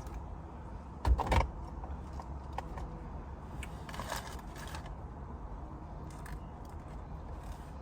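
Handling noises: two sharp knocks about a second in, then faint rustles and clicks over a low steady hum.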